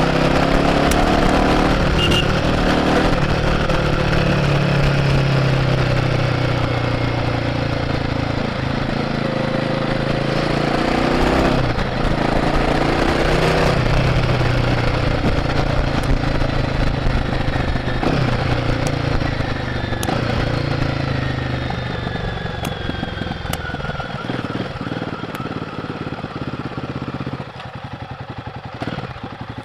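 Royal Enfield Guerrilla 450's 452 cc single-cylinder engine through its stock exhaust, heard from the rider's seat. It pulls through the gears, its pitch rising and then dropping at each shift, and near the end it eases off to a slow, low beat, with wind rush throughout.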